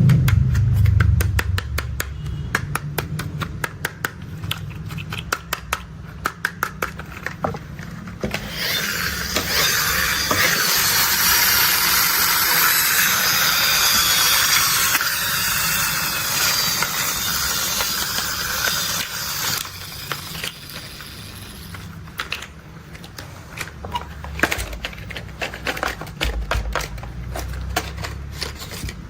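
Plastic toy construction vehicles being handled: rapid clicking and rattling, then a stretch of about ten seconds of rustling hiss, then more scattered clicks, over a low steady hum.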